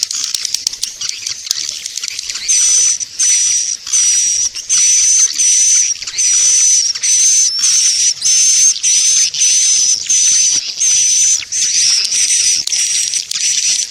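Recorded swiftlet calls played as a lure track for swiftlet houses: rapid high twittering, then from about two and a half seconds a regular series of buzzy, high chirps, roughly two a second.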